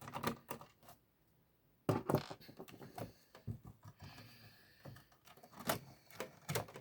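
Parts of an original Xbox being handled around its hard drive and case: scattered sharp clicks and knocks of plastic and metal, with a short pause about a second in.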